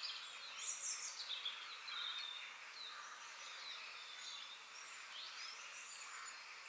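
Birdsong in a forest ambience: several birds giving short chirps, whistled notes and quick sweeping calls, busiest in the first second and a half, over a steady faint background hiss.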